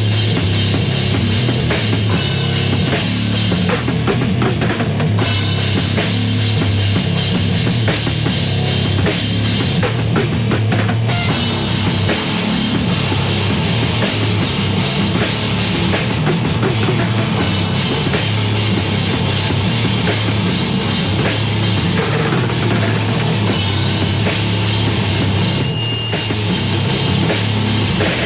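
Heavy metal demo recording: a band with drum kit, bass drum and guitar playing continuously at a steady loud level.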